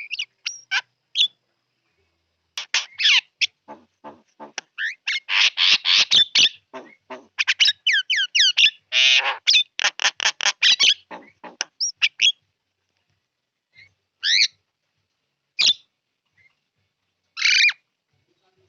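Javan myna singing: a fast, varied run of whistles, chatters and harsh notes for about ten seconds, then three separate calls spaced a second or two apart near the end.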